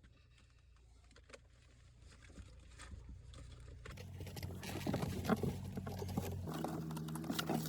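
Clicks and rustling of parts being handled, sparse and faint at first, then louder and busier from about four seconds in, as the fuel pump assembly is worked back into place.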